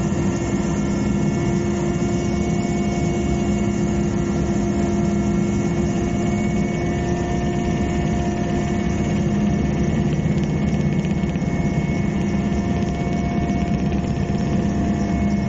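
Aircraft engine in flight, a steady unbroken drone with a constant pitch.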